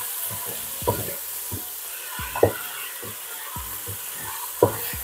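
Garlic-ginger paste sizzling in hot oil in a large pot, stirred with a wooden spatula that scrapes and knocks against the pot several times. The paste is being fried to take off its raw garlic smell.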